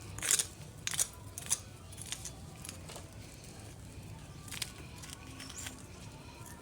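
Pigeons feeding on scattered corn: irregular sharp clicks and rustles, a few close together in the first two seconds and a couple more later.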